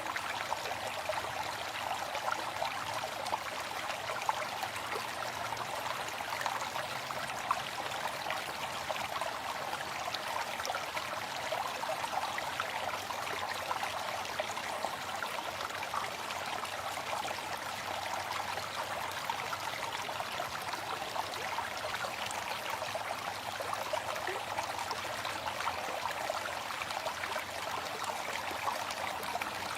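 Waterfall: water falling and splashing in a steady, continuous rush, with fine splashes and most of the sound in the middle and upper range.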